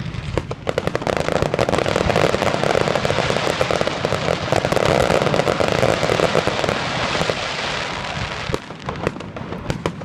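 Fireworks display: a dense barrage of rapid crackling pops and bangs. It thickens about a second in and thins out near the end.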